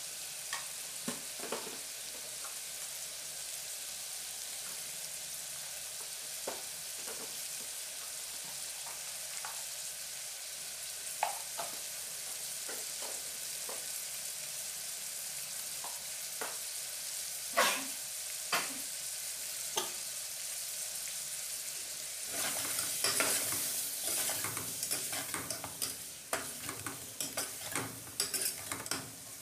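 Chicken, onions and tomatoes sizzling steadily in oil in an aluminium pressure-cooker pot, with a few scattered light clicks. About three-quarters of the way through, a steel ladle starts stirring and scraping against the pot, louder, with quick clatters of metal on metal.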